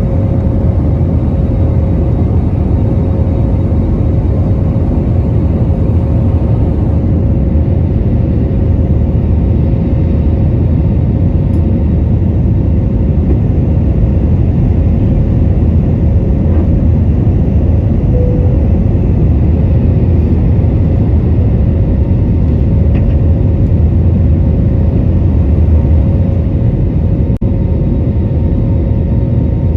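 Airbus A321 cabin noise in flight shortly after takeoff: a loud, steady, deep rumble of the jet engines and airflow, with a faint steady hum running through it.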